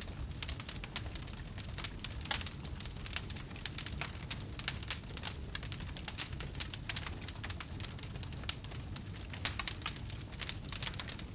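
Wood bonfire burning, with frequent irregular crackles and pops over a low steady rumble.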